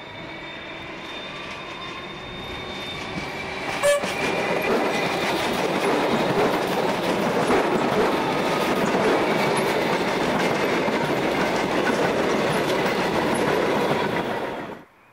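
Melbourne suburban electric passenger train approaching and passing close by: wheels rumbling and rattling over the rails, growing louder, with a steady high whine as it approaches and a sharp knock about four seconds in. The sound cuts off suddenly near the end.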